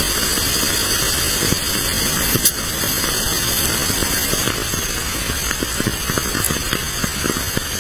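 Food frying in a pan, a steady sizzle dotted with many small pops and one sharper pop about two and a half seconds in.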